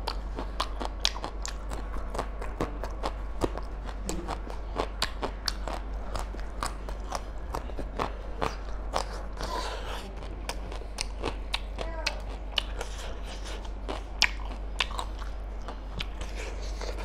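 Close-miked eating: a man chewing mutton curry, rice and raw long beans, with many crisp crunches, bites and wet mouth clicks, over a steady low hum.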